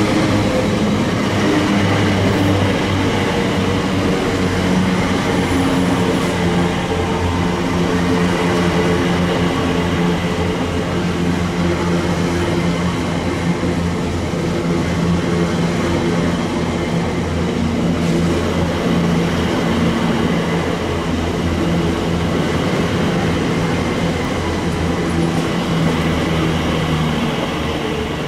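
Train running close by: a loud, steady drone with several held low tones that shift in pitch now and then.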